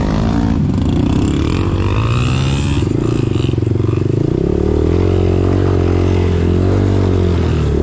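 Dirt bike engine running under throttle on a trail. Its pitch rises and falls with the throttle for the first few seconds, then holds a steadier note in the second half.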